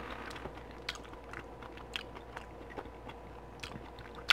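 Close-miked chewing of saucy beef ribs: wet mouth clicks and smacks at irregular intervals, with one sharper click just before the end.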